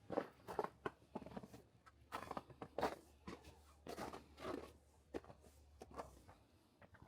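Footsteps at an uneven pace, a few short crunching knocks a second, over a faint low steady hum.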